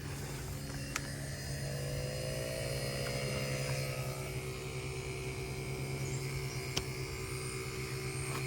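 Cordless battery-powered HVAC vacuum pump running steadily with a hum, evacuating an air-conditioning system through a hose on the suction line. Its pitch rises a little in the first few seconds, and there are two faint ticks.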